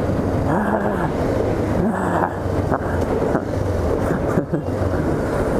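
Honda CBR500R's parallel-twin engine running under way, with wind rushing over the microphone.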